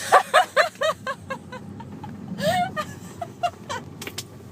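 A woman laughing in a quick run of short bursts that fade out within about a second, followed by a few soft vocal sounds, over a faint low rumble of the moving train.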